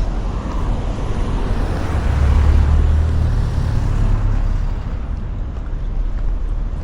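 A motor vehicle passing on a street: a steady noisy rumble that swells about two seconds in and fades again over a couple of seconds.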